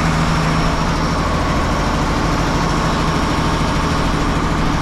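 Diesel engine of a 1995 Ford L8000 truck idling steadily.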